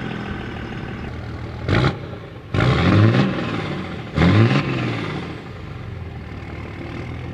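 Truck engine running, blipped three times in quick succession, each rev rising and falling in pitch before it settles back to idle.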